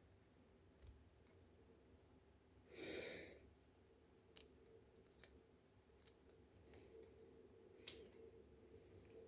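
Quiet handling sounds while round gobies are being cleaned: scattered faint clicks, and one brief noise of about half a second about three seconds in.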